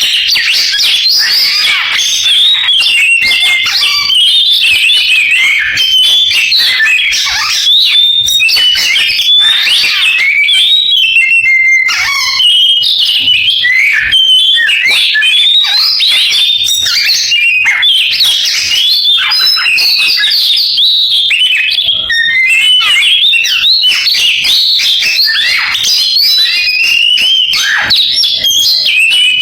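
Oriental magpie-robin (kacer) singing a long, unbroken song of rapid chirps, trills and whistled glides in canary-like phrases.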